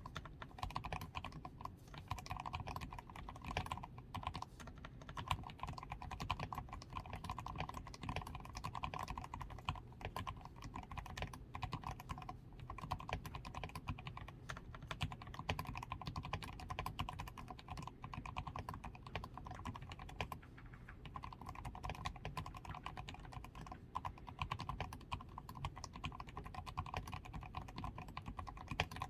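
Continuous fast typing on a DAREU A87 Pro mechanical keyboard with fully lubed switches, a taped PCB and XDA keycaps: a dense, unbroken stream of key clacks.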